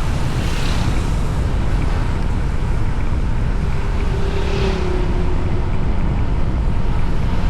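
Wind rushing over the microphone of a moving motorbike, with the bike's running noise underneath. A faint low held tone comes in briefly about four seconds in.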